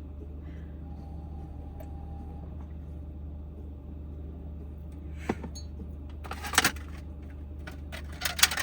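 Steady low hum inside a small van cabin, with a few short knocks and clatters of things being handled: one about five seconds in, then a cluster around six and a half seconds and another near the end.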